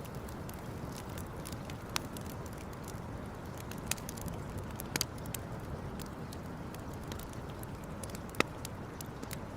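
Campfire burning with a steady low rush, crackling with small clicks and four louder sharp pops, the loudest near the end.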